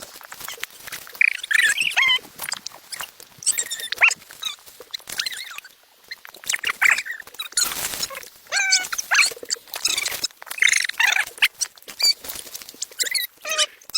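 A small animal making repeated short, high squeaks and whines that slide up and down in pitch, with rustling and clicks between the calls.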